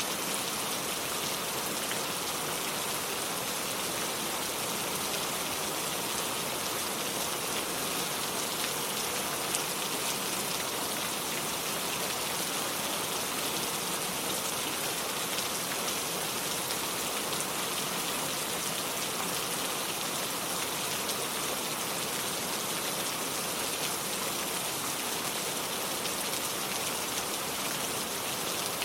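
Steady rain falling, a constant even hiss with the patter of drops on surfaces.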